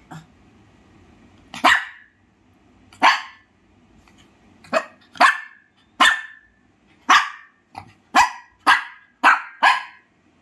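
Shih Tzu barking about ten times in short, sharp barks, unevenly spaced and coming closer together towards the end.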